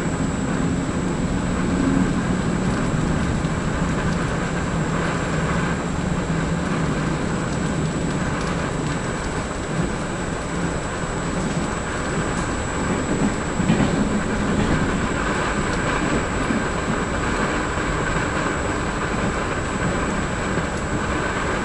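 Vivalto double-deck regional train running, heard from on board the carriage: a steady rumble and rushing wheel-on-rail noise, with a faint steady high whine.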